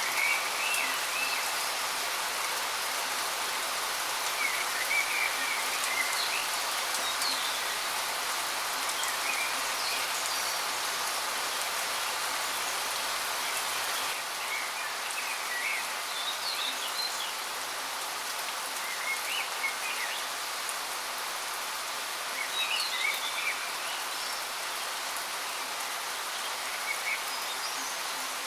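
Waterfall rushing steadily, with short bird chirps now and then.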